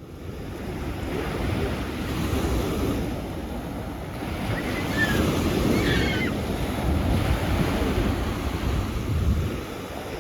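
Sea waves washing onto the shore, swelling and easing in level, with wind buffeting the microphone.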